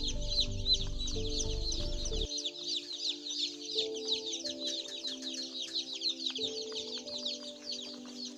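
A flock of about a hundred day-old chicks peeping continuously, many short, high, falling chirps overlapping into one constant chorus.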